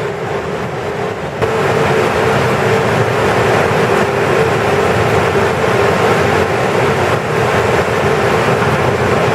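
Potato harvesting machinery running steadily: a loud, even mechanical noise with a steady hum through it, stepping up a little louder about a second and a half in.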